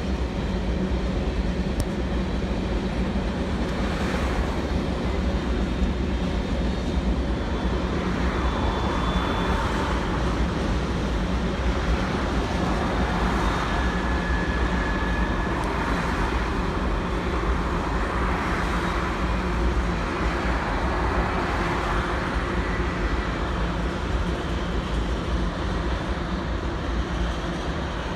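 Steady low rumble and rushing noise of a moving vehicle, with a constant low hum and a hiss that swells and fades every few seconds.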